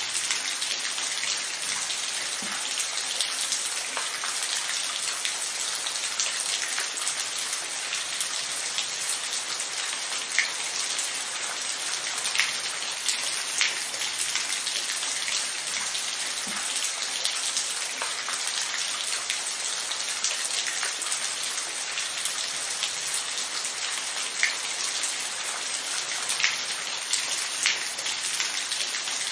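Steady rain falling, an even hiss with individual drops clicking sharply every second or so.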